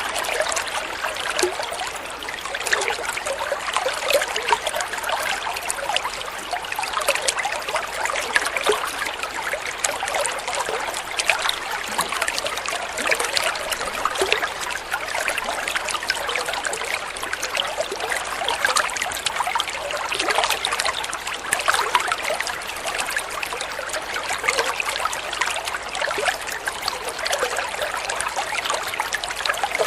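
Water flowing and trickling steadily, with many small splashes and bubbling sounds and no change in how it goes.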